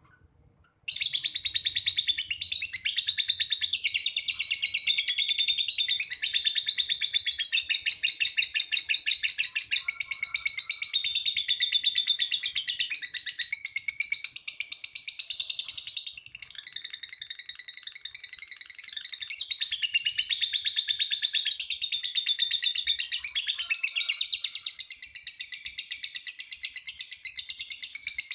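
Lovebird singing its long 'ngekek' chatter: a fast, unbroken stream of shrill chirping notes that starts about a second in and runs on without a pause.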